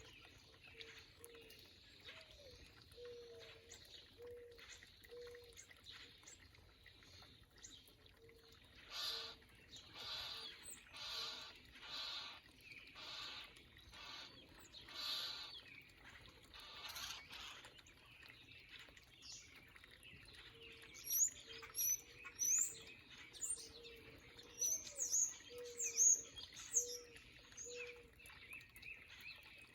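Backyard birds calling: a run of harsh, buzzy calls about one a second in the middle, then high, sharp chirps near the end, with soft low notes repeating underneath.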